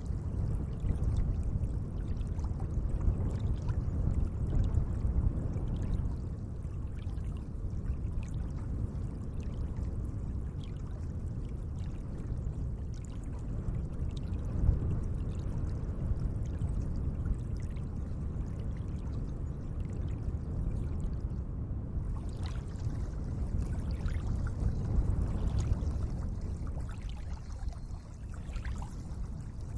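Lake water lapping gently: a steady low wash with many small splashes and trickles.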